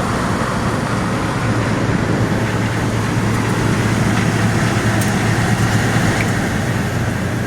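1965 Sears Coldspot 18,500 BTU window air conditioner running with its compressor on: a steady low hum under the even rush of its fan.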